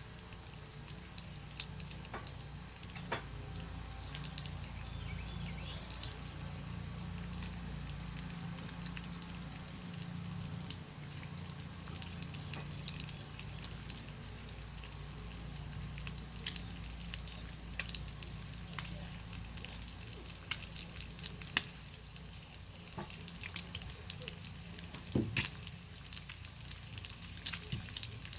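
Bacon frying over a crackling fire: a steady high sizzle with frequent sharp pops and crackles.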